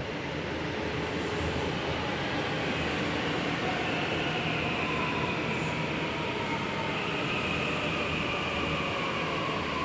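Delhi Metro train moving along a station platform: a steady, loud rumble with faint high whines from the train that drift slowly in pitch.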